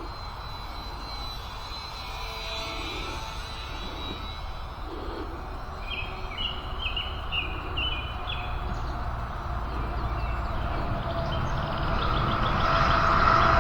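Small electric RC airplane's motor whining in flight, faint at first and louder toward the end as it comes nearer, with wind rumbling on the microphone. Birds chirp briefly about six to eight seconds in.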